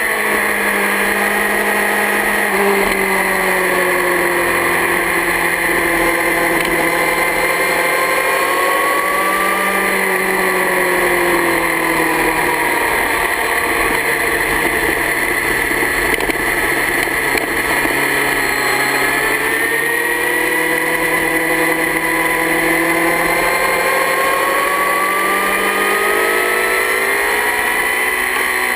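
Yamaha R6 sport bike's inline-four engine running at speed, its pitch rising and falling slowly as the throttle is rolled on and off through a run of corners.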